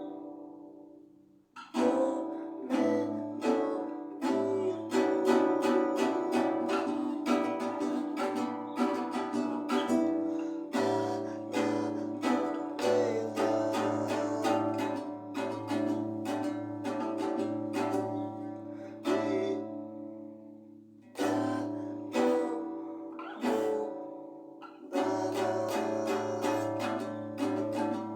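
Acoustic guitar playing: plucked and strummed chords that ring and fade between strokes, with brief pauses near the start, about twenty seconds in and again a few seconds later.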